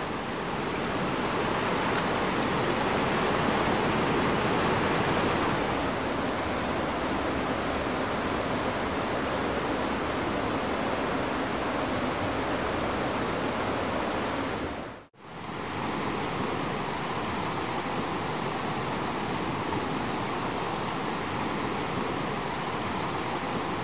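Steady rush of fast-flowing floodwater. It cuts off abruptly about fifteen seconds in and resumes slightly quieter.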